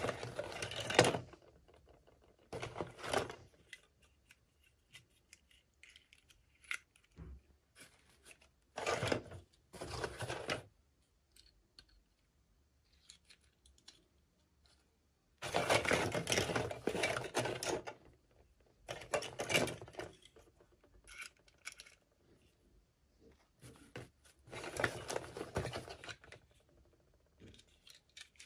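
Toy packaging being handled and opened by hand: about seven bursts of rustling and tearing, each a second or two long, with quiet pauses between them.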